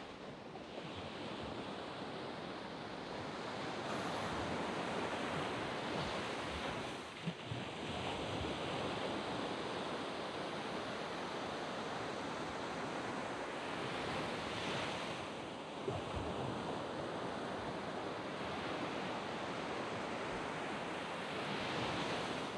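Waves washing onto a sand beach: a steady surf hiss that swells as a wave breaks every several seconds.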